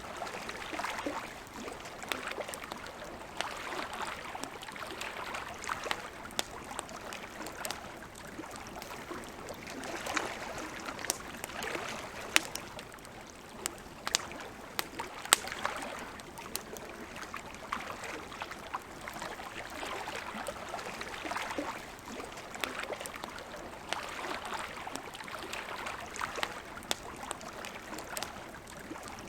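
Campfire crackling, with sharp irregular pops (a cluster of the loudest ones in the middle), over water lapping gently in soft, repeated swells.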